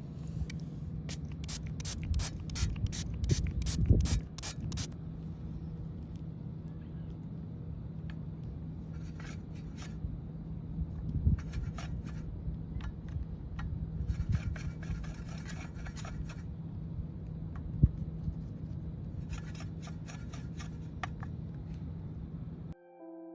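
Drawing strokes scratching on sketchbook paper: a quick run of about three strokes a second in the first few seconds, then several shorter bursts of scratching, over a steady low hum.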